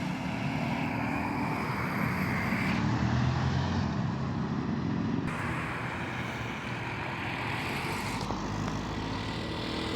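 A vehicle engine running at a steady, fairly low speed, with no hard revving.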